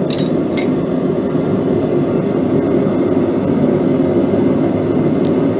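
A forge running with a steady rushing noise between heats, with two light metallic clinks of steel in the first second.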